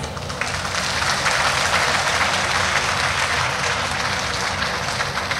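An audience applauding, a dense clatter of many hands clapping that swells about a second in and eases off near the end.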